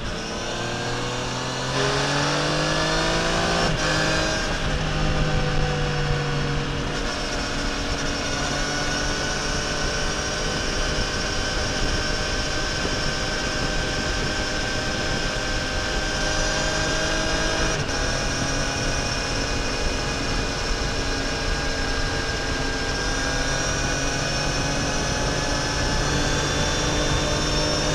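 Triumph Tiger Sport 800's three-cylinder engine accelerating, rising in pitch for about four seconds, a quick upshift, then settling into a steady pitch at cruising speed with wind noise.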